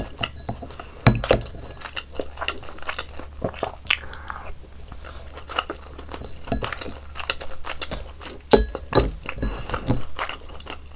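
Close-miked chewing: a person eating, with irregular small crunches and wet mouth clicks.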